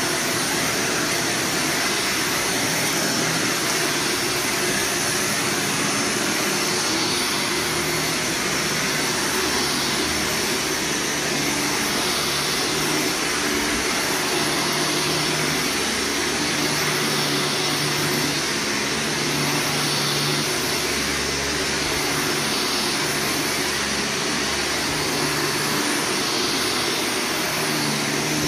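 Vacuum cleaner running steadily as it is pushed over carpet, its motor hum shifting slightly in pitch now and then.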